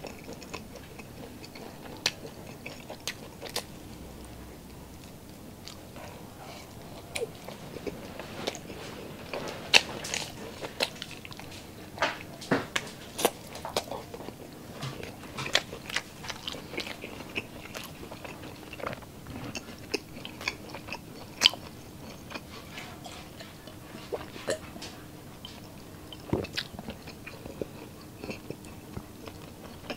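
Close-miked eating of grilled skewered street food: biting and chewing with many sharp, irregular crunchy clicks and wet mouth sounds.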